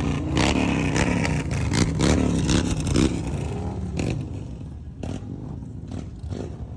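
Motorcycle engines revving, their pitch rising and falling for the first few seconds, then settling to a lower, steadier running with a few sharp clicks.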